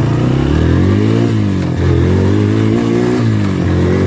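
ATV (four-wheeler) engine under the rider, revving up and easing off twice as it is ridden.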